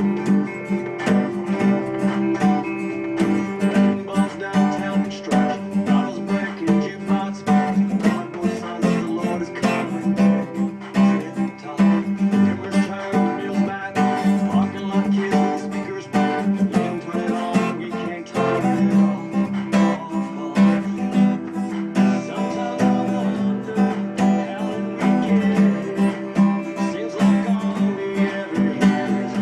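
Acoustic guitar strummed in a steady, busy rhythm: palm-muted downstrokes with upstrokes left to ring, playing the chords G, F and C.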